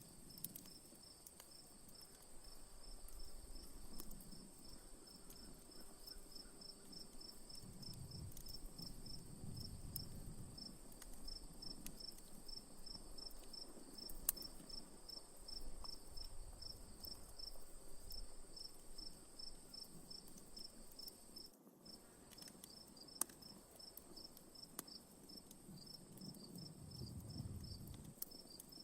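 Crickets chirping in a steady, regular pulse over a continuous high insect trill, with a few sharp crackles from a wood fire.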